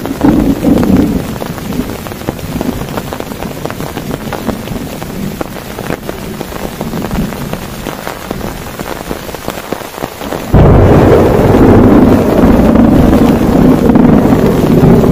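Heavy rain pattering on a tent, dense with fine drop ticks; about two-thirds of the way through a loud roll of thunder breaks in suddenly and rumbles on to the end.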